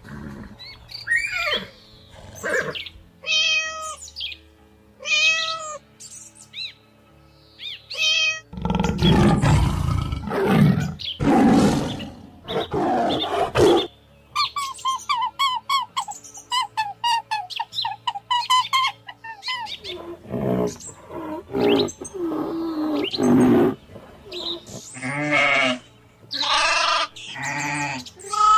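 A string of different animal calls one after another: short pitched cries, then several loud, deep calls in the middle, then a fast run of short chattering calls and more cries near the end.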